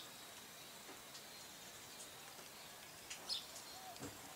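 Faint outdoor ambience with a few short, high bird chirps, the clearest a little after three seconds in.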